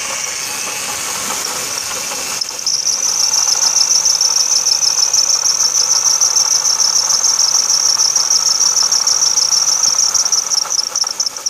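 Crickets chirping in a loud, rapid, steady high trill. A faint engine running underneath for the first two seconds or so cuts off abruptly.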